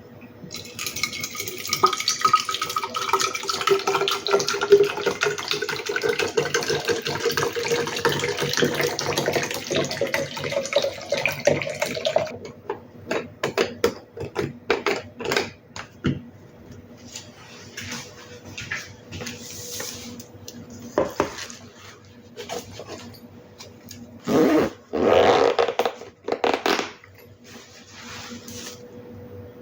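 Water running from a tap into a container for about twelve seconds, its pitch rising as the container fills, then cut off. Scattered clicks and knocks of things being handled follow, with a few louder scraping noises near the end.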